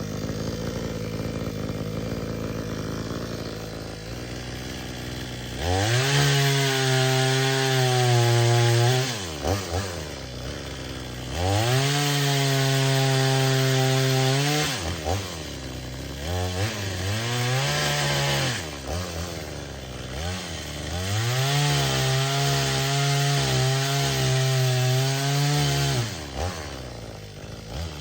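Cheap two-stroke gas chainsaw cutting wood: it rises from idle to full throttle three times and holds each for a few seconds, dropping back to idle between cuts.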